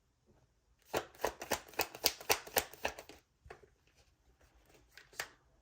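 Tarot cards being shuffled by hand: a quick run of card slaps, about four or five a second, for roughly two seconds, then a few single taps near the end.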